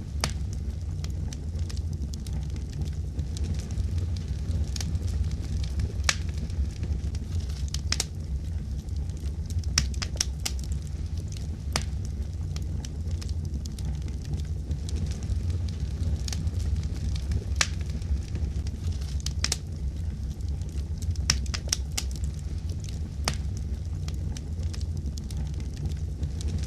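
Wood fire crackling in a fireplace: a steady low rumble of the flames with sharp pops and snaps at irregular intervals.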